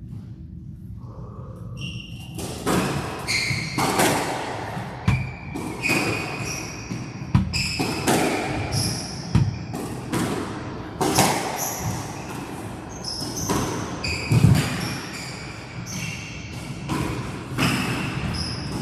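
Squash rally: the ball cracking off racquets and the court walls about once a second in an uneven rhythm, with short high squeaks of players' shoes on the court floor.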